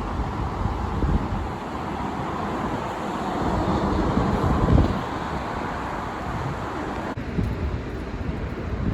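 City bus engine and tyre noise, building to a peak about halfway through and then easing, with wind buffeting the microphone.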